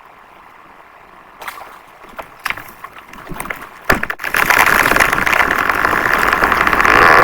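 A tree coming down: scattered cracks and snaps of breaking wood, a sharp crack about four seconds in, then a loud rush of branches and leaves crashing.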